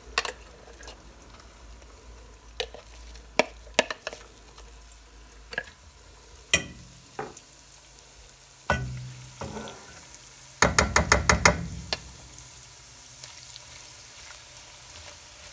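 Ground walnuts frying in oil in a non-stick wok with a faint sizzle, while a spoon scraping the chopper bowl and a silicone spatula stirring make scattered clicks and knocks. A quick run of about eight knocks, a little past halfway, is the loudest sound.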